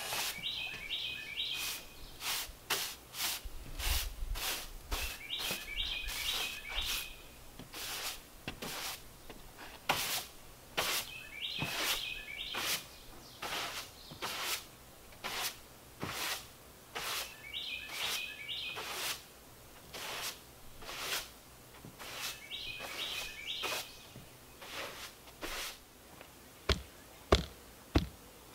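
A songbird repeating a short phrase every five or six seconds, over a steady series of sharp ticks about two a second, with a few louder knocks near the end.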